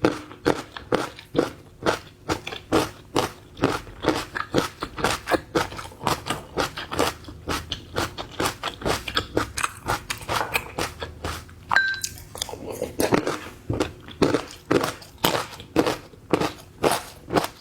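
Close-miked chewing and crunching of seafood, a steady rhythm of about three bites a second. A brief high squeak sounds once about two-thirds of the way through.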